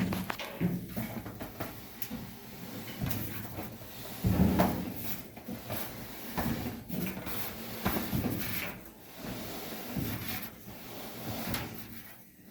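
Whirlpool dryer drum being turned by hand to check the new drive belt's alignment: a series of sliding, rubbing strokes about a second apart, with a few knocks.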